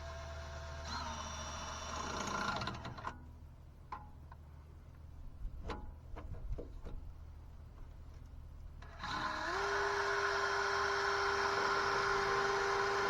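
A handheld power drill drilling out a broken starter bolt in the engine block. A few clicks and knocks of tool work come first, then about nine seconds in the drill spins up and runs steadily and loud.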